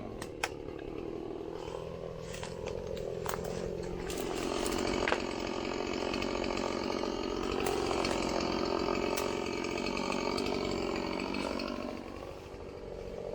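Two-stroke chainsaw running under load as it cuts into a tree, its engine note steady with small dips in pitch. It grows louder about four seconds in and eases off near the end.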